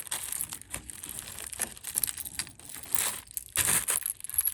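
Crinkling and rustling of packaging handled by hand, in irregular bursts with a few sharper crackles.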